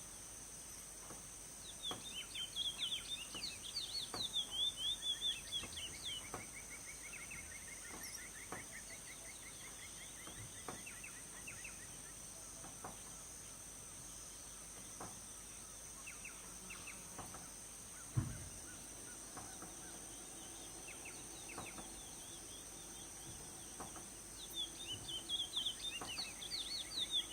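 Chestnut-bellied seed finch (curió) singing: a fast run of varied whistled notes about two seconds in that trails into a trill, scattered quieter notes, and another burst of song near the end, over a steady high insect drone. A single dull thump about two-thirds of the way through.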